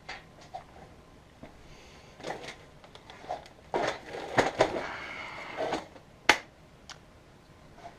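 Scattered clicks, knocks and brief rustling and scraping of things being handled, with one sharp click a little after six seconds; the vacuum motor is not running.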